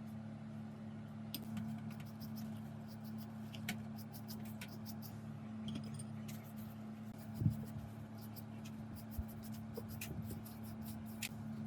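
Scattered light clicks and taps over a steady low hum, with one louder knock about seven and a half seconds in.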